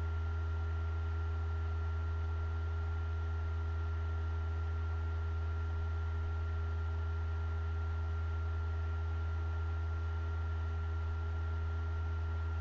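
Steady electrical hum, strong and low, with a thin high whine over faint hiss, unchanging throughout.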